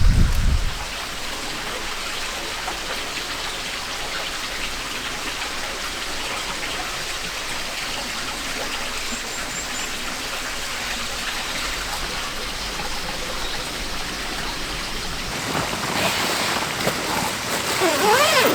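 Steady, even hiss of light rain and a flowing stream. A louder low sound cuts off about a second in, and a few wavering tones come in near the end.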